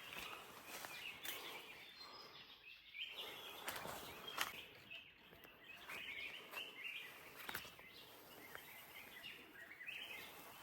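Faint outdoor forest ambience with scattered short bird chirps and a few sharp clicks.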